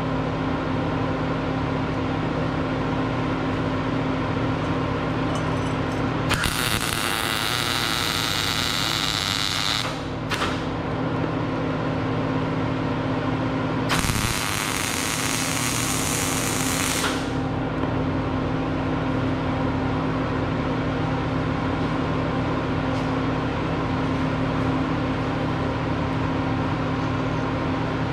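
Two welds being run on a steel frame, each a crackling burst of about three to four seconds, the first about six seconds in and the second about fourteen seconds in, over a steady electrical hum.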